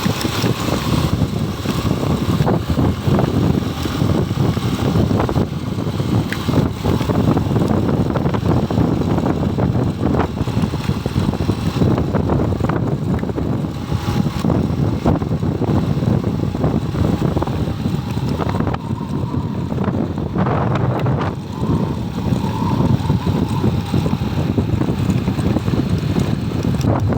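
Wind buffeting the microphone on a moving motorcycle, with the motorcycle's engine running underneath.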